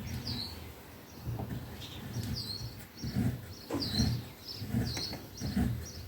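A small bird chirping over and over, short falling chirps about twice a second, mixed with low, uneven thumps that are the loudest thing heard.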